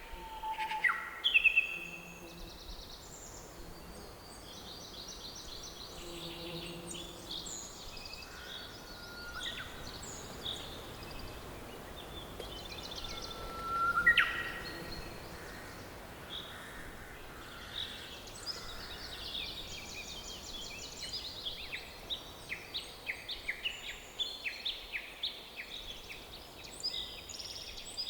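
Forest birdsong: several birds chirping and whistling over a soft, steady background hiss. A loud rising whistle comes about halfway through, and a quick run of short chirps follows near the end.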